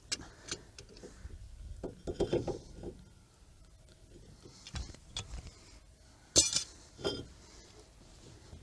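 Scattered metal clicks and clinks of hand tools: channel-lock pliers being worked on a car's brake caliper. The loudest is a sharp clack about six and a half seconds in.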